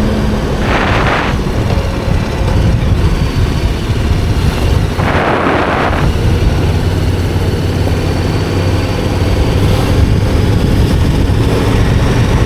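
KTM 1290 Super Adventure R's V-twin engine running steadily under way, buried in wind and road noise on the microphone. Two brief hissing rushes come through, about one second in and again about five seconds in.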